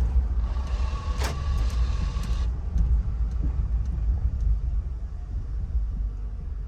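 Road and engine rumble inside the cabin of a 2005 Chevy Tahoe on a test drive. A brief hiss with a steady whine comes in about half a second in and stops about two seconds later.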